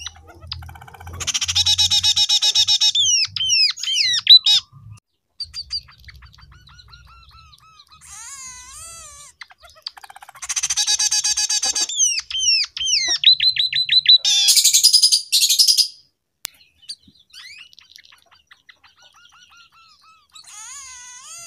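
Scaly-breasted munia singing a song filled in with canary phrases: two loud stretches of very fast trilling, one about a second in and another about halfway, with slurred up-and-down whistled notes between them and a high rasping burst after the second trill.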